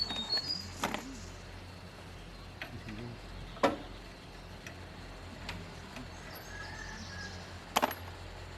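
Scattered sharp metallic clinks and knocks of hand tools on metal parts, the loudest about three and a half seconds in, over a steady faint low hum.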